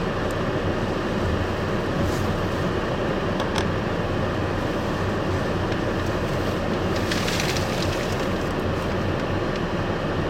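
Hurricane-force wind blowing hard and steadily, with a deep rumble from wind buffeting the microphone. A few brief, sharper bursts of noise come through about two seconds in, around three and a half seconds, and for about a second near seven seconds.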